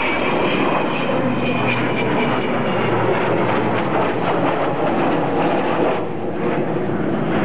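Engines of large aircraft flying past: the Avro Vulcan's jet engines together with the Lancaster's piston engines, a steady rushing engine noise with a faint high whine. The noise dips briefly about six seconds in.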